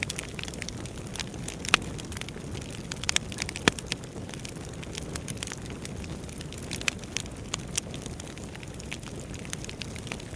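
Wood fire crackling: a steady low rush of flames with irregular sharp snaps and pops, a few louder pops around two and four seconds in.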